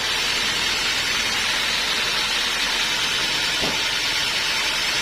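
Homemade band sawmill running with a steady hissing whir, no change in level.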